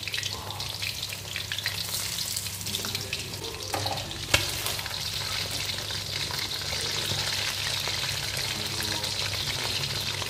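Flour-coated chicken wings frying in hot oil in a wok: a steady sizzle full of small crackles, as metal tongs turn the pieces. One sharp click about four seconds in.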